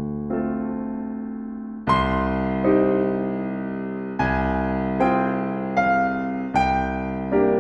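Solo piano playing slow, gentle chords, a new chord struck about once a second and left to ring and fade.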